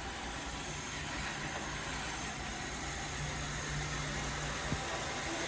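iRobot Roomba robot vacuum running, a steady whirring noise from its suction fan and brushes, with one small tick near the end.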